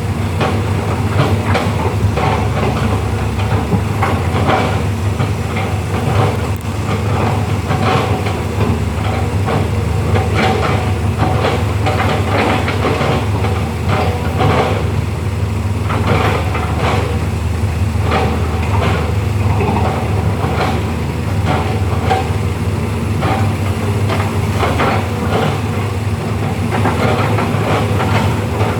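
Heavy earthmoving machine's diesel engine running steadily with a low drone, with repeated metallic clanks and knocks from the machine working.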